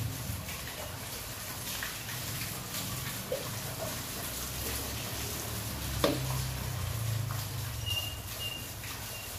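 Heavy rain falling steadily, with water splashing as it is scooped from a plastic tub with a basin and poured out over the paving, over a low rumble. A sharp knock about six seconds in.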